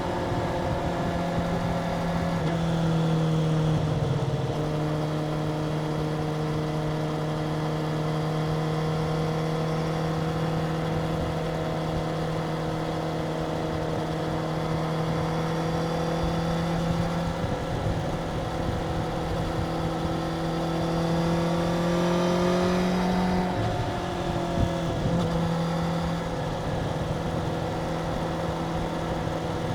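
Stock Suzuki GSX-R750 750 cc inline-four running at steady mid revs through its stock exhaust. Its pitch dips briefly about two seconds in, creeps slowly upward for some twenty seconds, then drops sharply and holds steady.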